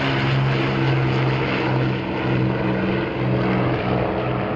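Avro Lancaster's four Rolls-Royce Merlin V12 piston engines droning as the bomber flies past, a steady low note that swells and dips slightly.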